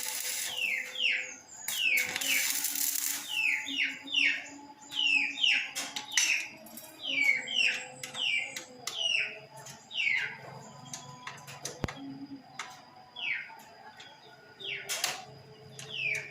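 A bird chirping over and over, each chirp a quick falling note, often in pairs. Two short bursts of hissing come near the start and at about two to three seconds in.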